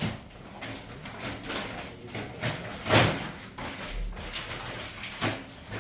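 A series of irregular knocks and clatters, like household objects or a door being handled, with a heavy thump about three seconds in and another shortly before the end.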